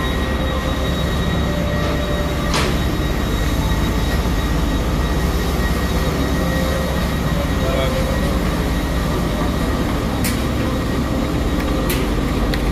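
Lagos Red Line metro train standing at the platform: a steady low rumble and hum with a faint high whine running through it, broken by a few short sharp clicks.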